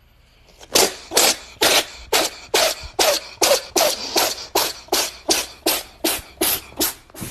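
An animal making a rapid run of about fifteen short, cough-like huffs, two or three a second.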